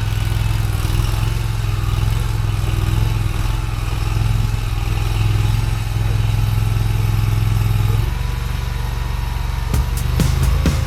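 Mini skid steer engine running steadily as the machine works, its note dropping slightly about eight seconds in, with a few clanks near the end.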